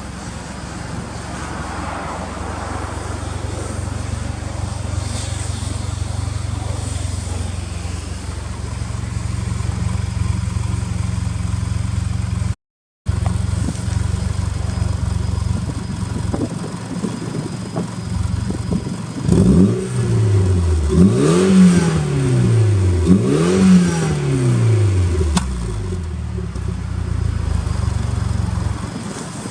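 Mitsubishi Lancer Evolution X's turbocharged 2.0-litre four-cylinder idling steadily through an aftermarket Tomei titanium exhaust. About two-thirds of the way through it is revved three times in quick succession, each rev rising and falling back to idle.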